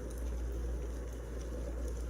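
Firewood burning in a fireplace: a steady low rumble of the fire with a few faint, sharp crackles.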